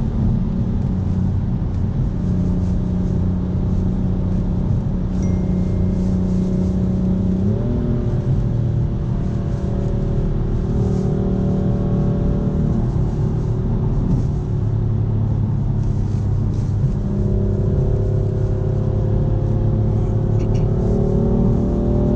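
BMW M4 Competition's twin-turbo inline-six heard from inside the cabin while driving, over a steady low rumble of road and tyre noise. The engine note jumps up in pitch about seven seconds in and climbs slowly again near the end.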